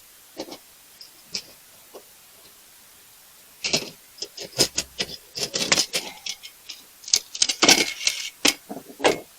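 Rummaging through stored gear: a few faint knocks, then from about four seconds in a busy run of clinks and clatters of small hard items being moved about.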